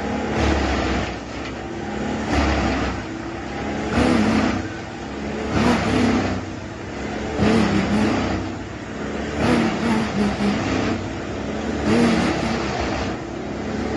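Bandit 21XP wood chipper running hard, its engine and blade drum surging under load about every two seconds as logs are fed through and chipped.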